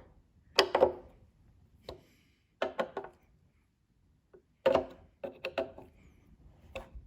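Tools and small parts being handled and set down on a hard surface: a series of short knocks and clatters, a cluster of them in quick succession about five seconds in.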